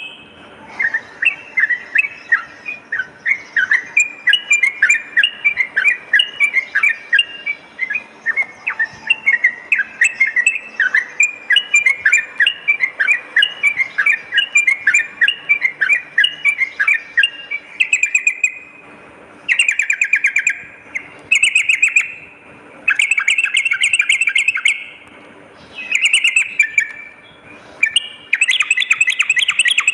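Yellow-vented bulbul (trucukan) singing. For the first half it gives a quick series of short chirping notes, several a second. Then it switches to dense, rapid rattling phrases (ropel) a second or two long, with short pauses between them.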